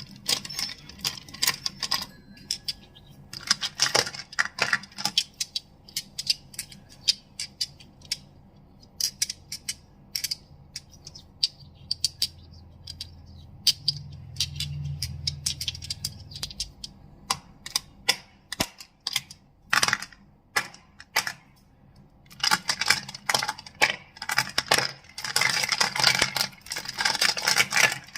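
Crystals being tapped and clacked together, a stream of sharp clicks. The clicks come thick and fast at the start and again over the last several seconds, and are sparser in between.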